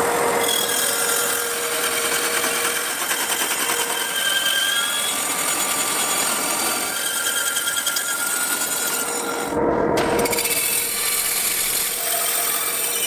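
A power tool working wood: a continuous grinding noise with faint wavering squeals over it. The higher part cuts out briefly about ten seconds in, then resumes.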